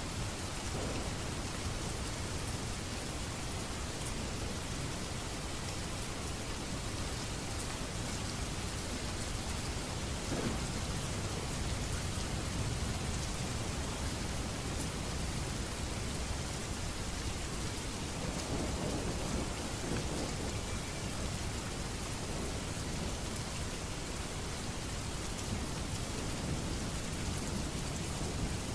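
Steady rain, an even hiss of falling drops, with low rumbles swelling about ten seconds in and again around two-thirds of the way through.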